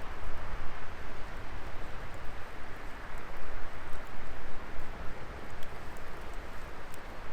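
Wood fire burning in a Coleman Fire Disc fire pit: a steady hiss of the flames over a low rumble, with a few faint crackles.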